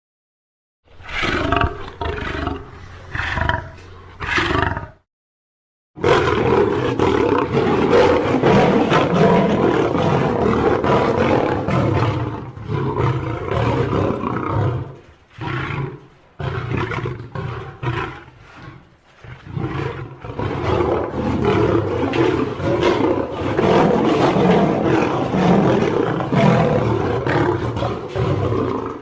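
Lion roar and snarl sound effects: a few short growls, a second of silence, then a long stretch of continuous snarling growls and roars with brief dips.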